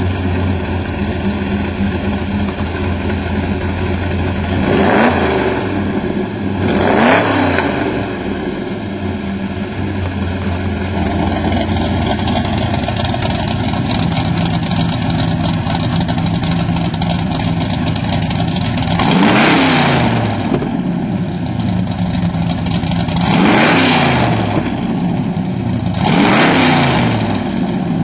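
Cummins diesel engine idling through an exhaust with an electric cutout, revved in five short blips: two near the start and three near the end. Partway through, the steady idle note changes as the cutout switches the exhaust from the closed side pipes to the open side pipes.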